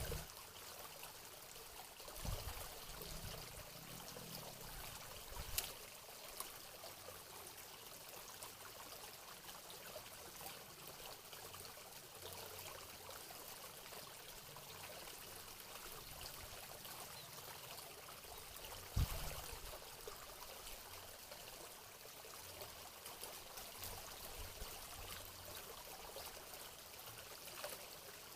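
Water trickling steadily into a small pond. A few dull low thumps come through: one about two seconds in, one a few seconds later, and a stronger one about two-thirds of the way through.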